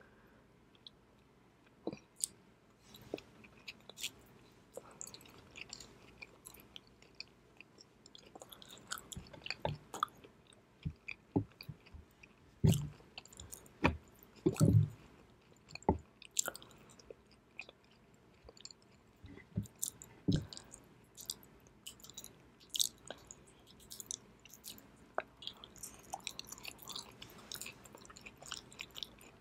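Close-miked chewing of raw salmon sashimi dipped in soy sauce: irregular soft, wet mouth clicks and smacks, loudest around the middle.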